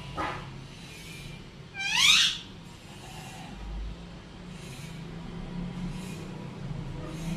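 Pet green parrot giving one loud rising call about two seconds in, then only faint soft sounds.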